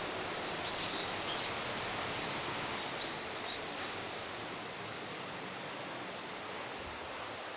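Steady rush of a waterfall, with a few short bird chirps in the first few seconds.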